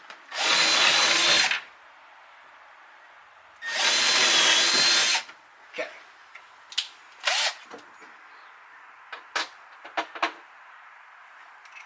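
Milwaukee power drill running in two bursts, about a second and a second and a half long, boring holes with a metal-cutting drill bit. A few light clicks and knocks follow.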